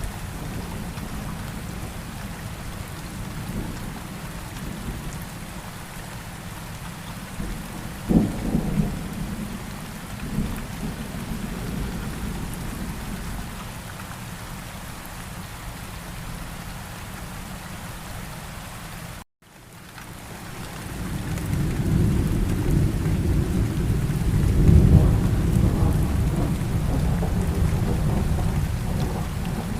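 Steady rain falling, with thunder: a sharp crack about eight seconds in, and a long low rolling rumble building in the second half. The sound cuts out completely for a moment near the middle, then fades back in.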